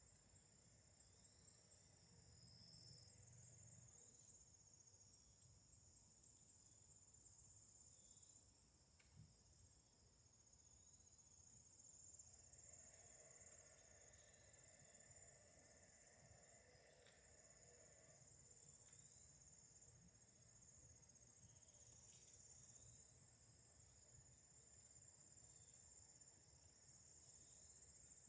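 Faint, steady high-pitched chirring of crickets, with short chirps repeating every second or two.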